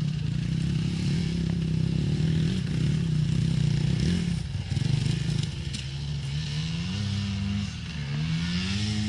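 Enduro motorcycle engine revving, its pitch dropping and rising several times as the throttle is opened and eased, with a rise in revs near the end.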